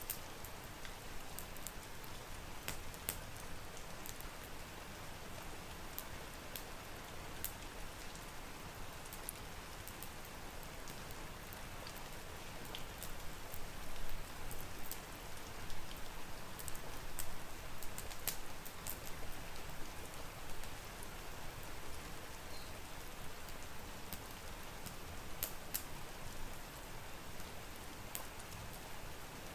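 Steady rain falling, with scattered sharp pops and crackles from a wood fire in a fireplace, a little busier about halfway through.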